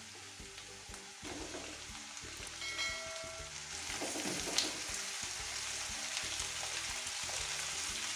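Chicken pieces sizzling in hot oil with fried onion and curry leaves in a pan, the sizzle growing louder after about a second, with a few light clicks and a brief ringing tone about three seconds in.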